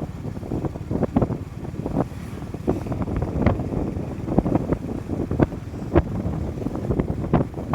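Motorcycle on the move: wind buffeting the microphone over low engine and road rumble, with irregular short knocks and gusts.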